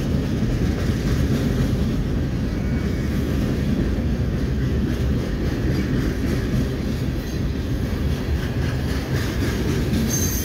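Freight cars of a CSX mixed manifest train, boxcars and tank cars, rolling past close by: a steady low rumble of steel wheels on rail.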